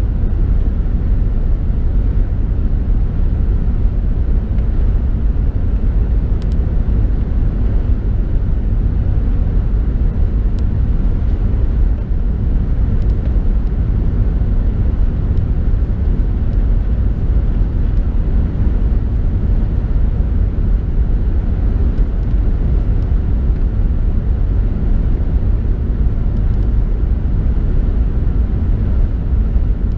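Steady low rumble of the cabin noise aboard an Airbus A380 airliner: engine and airflow noise, even and unbroken throughout.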